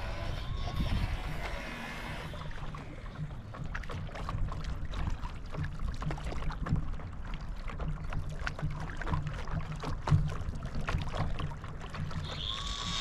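Lake water splashing and lapping around a paddle board, with many small irregular splashes over a low steady rumble.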